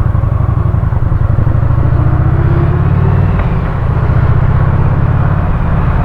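Motorcycle engine running steadily during a ride, a deep low rumble that eases off briefly a little past the middle before picking up again.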